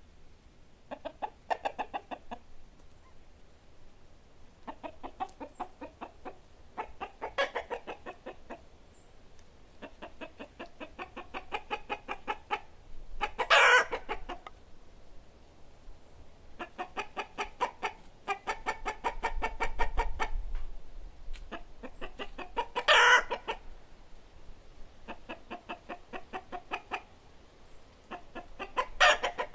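Chickens clucking in repeated bouts of rapid clucks, each a second or two long with short pauses between. Two brief, louder and shriller squawks break in, about midway and again about two-thirds of the way through.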